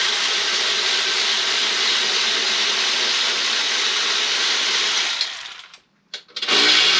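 A handheld power tool's motor running steadily, spinning a socket on an engine bolt. It winds down and stops about five and a half seconds in, gives one short blip, and starts up again near the end.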